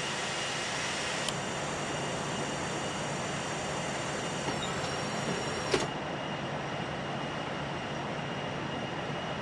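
Steady jet engine and airflow noise in the cabin of a Boeing 787-8 climbing out after takeoff. A click about a second in starts a faint high whine, which ends with a sharp thump near six seconds as the landing gear retracts and stows; the noise is slightly quieter after the thump.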